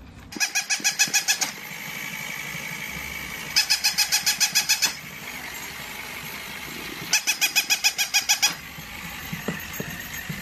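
Battery-powered interactive toy dog yapping through its small speaker: three bursts of rapid electronic barks, about a second or more each, with a steady hum between the bursts.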